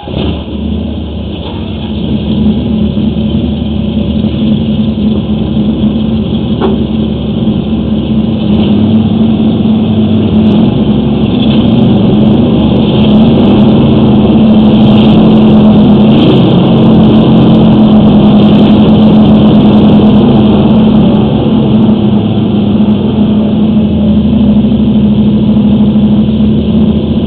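Gas engine of a hydro-jetter running steadily under load, with a strong constant hum, while the line is jetted.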